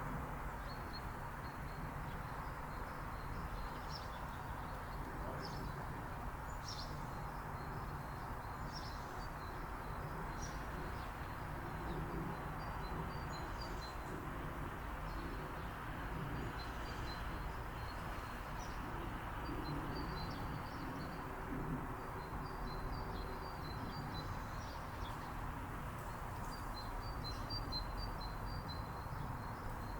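Small birds chirping, short high notes repeated on and off throughout, over a steady rushing background noise.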